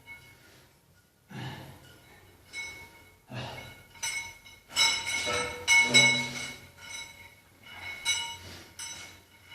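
Metal gym weights clanking, a string of irregular knocks about a second apart, each leaving a short metallic ring; the loudest come around the middle.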